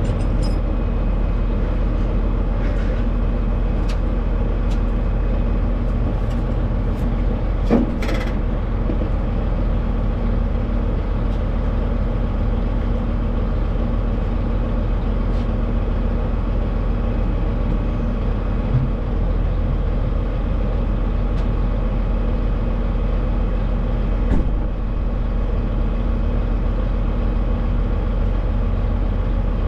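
Semi truck driving at a steady speed: a steady engine drone with road noise, and a sharp click about eight seconds in.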